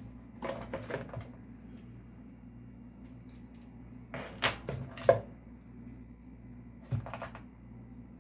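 Clicks and knocks of small hard objects being handled, in three short clusters: about a second in, around four to five seconds in (the loudest), and near seven seconds. A steady low hum runs underneath.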